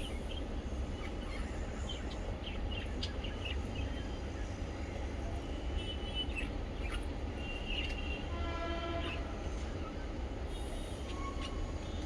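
Budgies and lovebirds giving short, scattered chirps over a steady low rumble. Around eight seconds in there is a held, buzzy pitched call lasting about a second.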